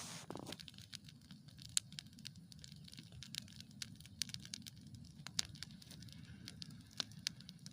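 Campfire crackling: irregular sharp snaps and pops, a few louder than the rest, over a low steady rumble.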